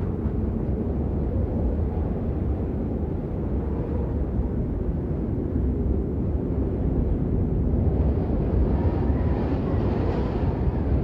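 Steady rain, a dense unbroken rushing noise heavy in the low end, with a brighter hiss swelling about eight seconds in.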